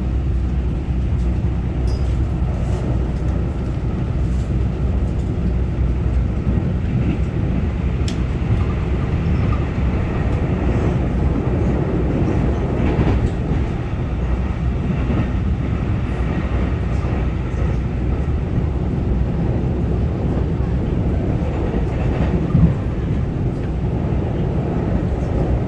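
Cabin noise inside a Taiwan Railway EMU900-series electric multiple unit running at speed: a steady low rumble of wheels and running gear on the track, with a few light clicks.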